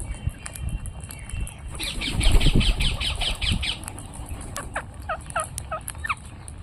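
Parrots calling: a rapid run of chattering notes about two seconds in, then several short whistled calls that glide in pitch. Low rumble sits underneath.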